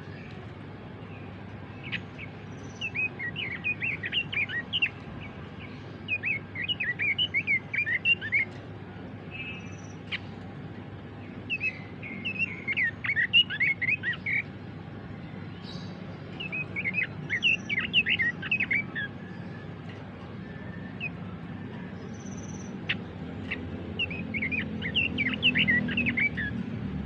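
Pekin robin (red-billed leiothrix) singing: about six short phrases of quick, warbled whistled notes, a few seconds apart. A low rumble rises underneath near the end.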